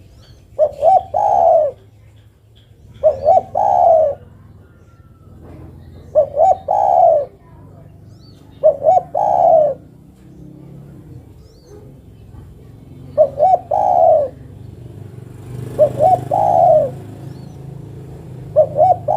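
Female spotted dove (derkuku) cooing to call a male: a repeated phrase of two short notes and a longer falling coo, given seven times about every two and a half to three seconds.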